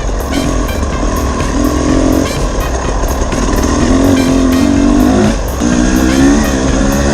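Dirt bike engine under way, its pitch climbing with the throttle and dropping back several times as the rider shifts and eases off, over a steady low rumble.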